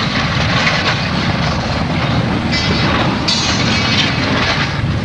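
A train running loudly at close range: a steady heavy rumble with two stretches of high hissing noise about halfway through.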